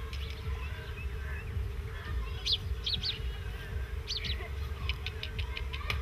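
Birds chirping: a few short high calls in the middle, then a quick run of repeated notes near the end, over a steady low rumble.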